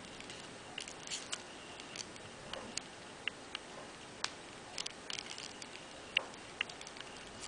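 Knitting needles clicking lightly and irregularly while stitches are being bound off.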